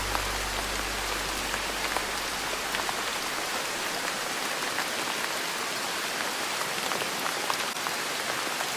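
Steady rain falling on a surface, an even hiss with many small drop ticks. Soft low music tones fade out in the first few seconds.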